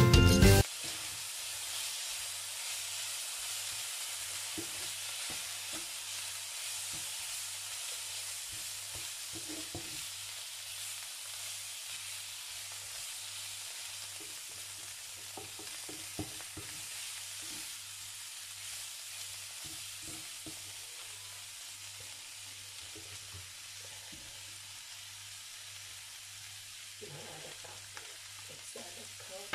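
Chicken strips sizzling in a frying pan, with scattered scrapes and taps of a wooden spatula as they are stirred. The sizzle slowly dies down. A snatch of background music cuts off just at the start.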